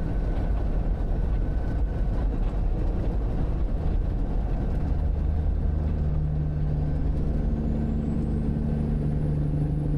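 Semi truck engine and road noise while driving, a dense low rumble that about halfway through settles into a steady, even engine drone. A faint high whine rises over the last few seconds.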